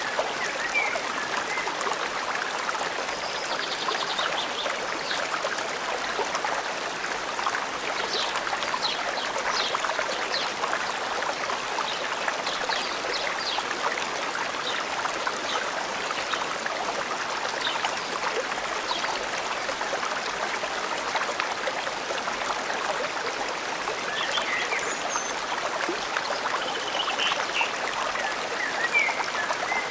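Forest stream running steadily, with a few short bird chirps over it near the start and again near the end.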